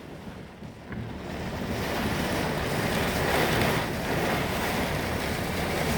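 Strong storm wind rushing and buffeting the microphone, swelling over the first couple of seconds and then holding, from winds the filmer takes for a tornado.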